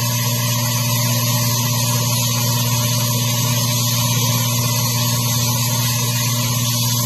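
Dustless (wet abrasive) blasting rig running: a loud, steady hiss of the blast stream over a steady low hum.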